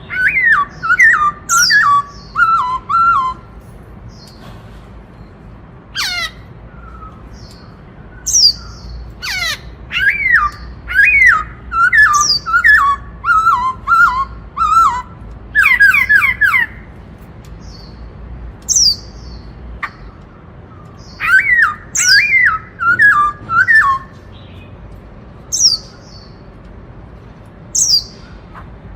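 Black-throated laughingthrush singing loudly in the 'bắt cô trói cột' style, after the four-note call of the Indian cuckoo. It gives runs of quick falling whistled notes in three bouts, at the start, a long one in the middle and a shorter one later, with sharp high calls between the bouts.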